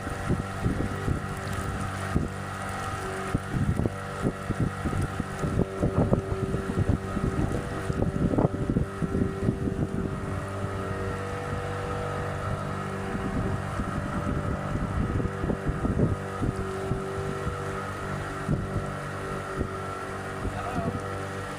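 Motorboat engine running steadily as the boat cruises, with gusty wind buffeting the microphone, heavier in the first half.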